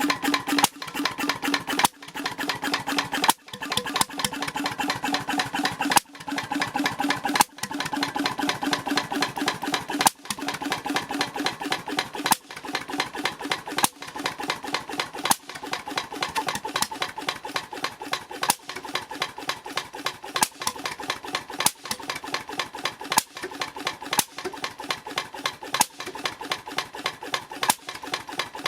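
H V McKay Sunshine 10 hp type C portable engine running, a fast even clatter with a sharper, louder beat every second or two.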